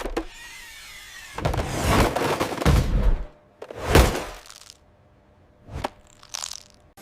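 A string of separate crashing and knocking noises, the loudest a sharp impact about four seconds in, followed by a short click and a brief hiss near the end.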